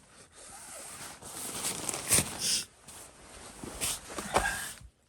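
Rustling and crackling of a sleeping bag and blanket being handled, with a few sharper crinkles about two and four seconds in; it stops abruptly near the end.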